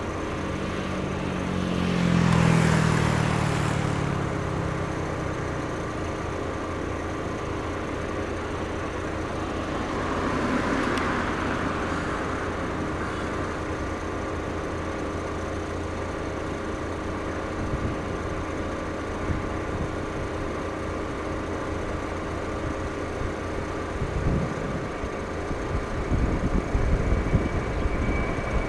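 Road traffic at an airport perimeter, two vehicles passing close by, about two seconds and about ten seconds in, over a steady hum with several held tones. A low, uneven rumble builds near the end.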